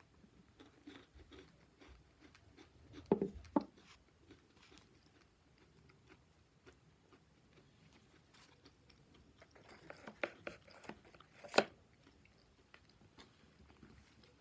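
Scattered light clicks and knocks in a small room. There are two louder knocks about three seconds in, and a run of clicks later on ends in one sharp knock.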